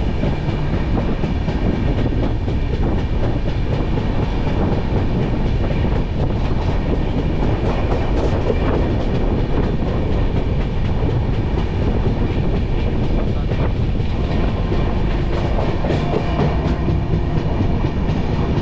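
Passenger train coach running along the track, heard from its open doorway: a steady, loud rumble of the wheels on the rails.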